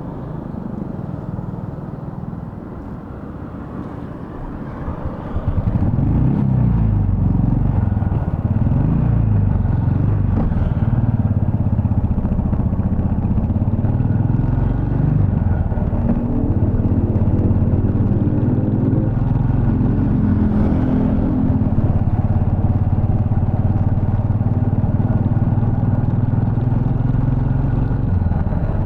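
Royal Enfield Bullet 350 Electra's single-cylinder engine running quietly for about five seconds, then getting louder as the bike pulls away. Its note rises and drops several times through the gear changes, then settles into a steady cruise.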